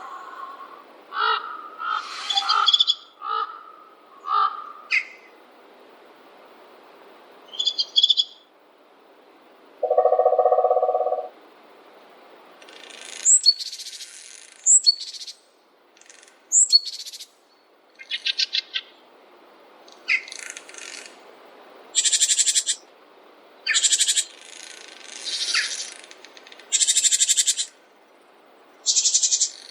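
Songbirds calling and singing: short chirps at first, one lower, steadier call about ten seconds in, then a series of high trilled phrases repeating every second or two through the second half.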